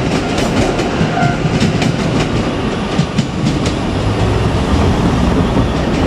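A JR Kyushu 817 series electric train running past, its wheels clicking over the rail joints in a quick irregular run of clicks over a steady rumble.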